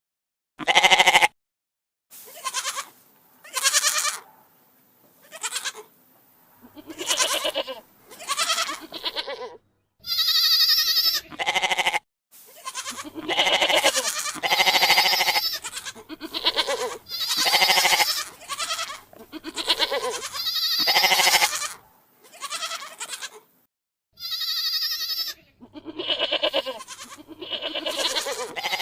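Bleating farm animals: a string of separate bleats of varying length, each a pitched, wavering call, with short pauses between them.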